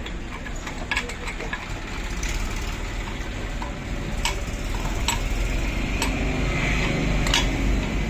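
A motor vehicle engine running, a low rumble that grows louder over the last few seconds, with a few sharp metallic clicks.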